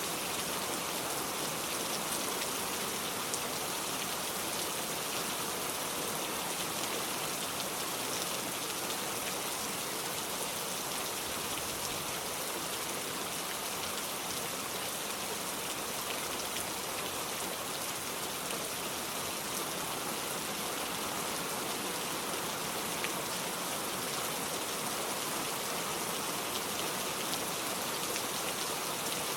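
Steady rainstorm rain, an even unbroken hiss of falling rain, with a few faint ticks now and then.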